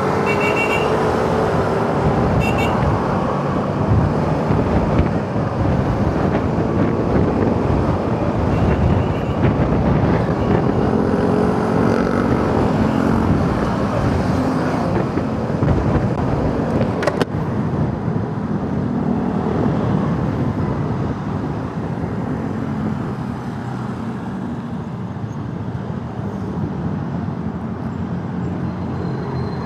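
Motorcycle engine running while riding in road traffic, its pitch rising and falling with the throttle, with a steady noise of road and traffic around it.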